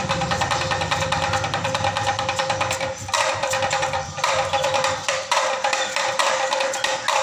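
A small percussion instrument playing a fast, continuous rattle of clicks, broken by brief pauses about three and four seconds in.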